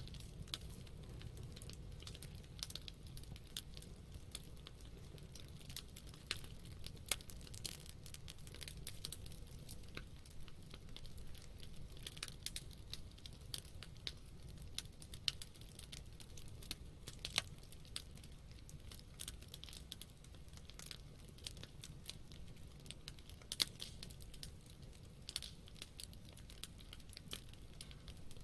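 Wood campfire crackling, with irregular sharp pops and snaps from the burning wood, a few louder than the rest, over a steady low rumble.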